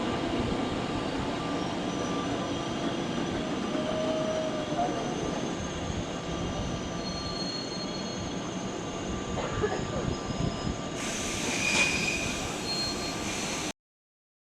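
Electric-locomotive-hauled passenger train moving through the station: steady rolling noise with thin, shifting wheel and brake squeal tones, brighter and higher near the end. The sound cuts off suddenly shortly before the end.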